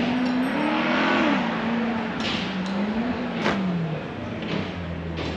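Maserati GranTurismo 4.7-litre V8 through an Emil performance exhaust, revved up and down twice and then dropping back to a steady low idle. A few sharp cracks come in the middle.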